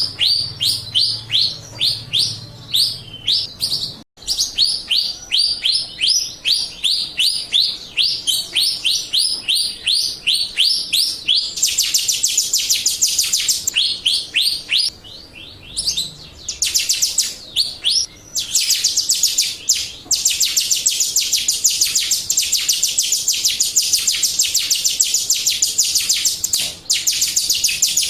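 Jalak Rio bird singing a fast series of sharp, high, downward-sweeping chirps at about four or five a second. Past the middle, the chirps run together into a dense, unbroken rapid twitter.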